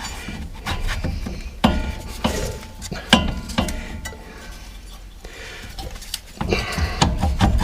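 Irregular metallic clinks and knocks from a disc-brake caliper being worked back into place on a car's front brake, a tight fit between its mounting parts. The knocking gets busier near the end.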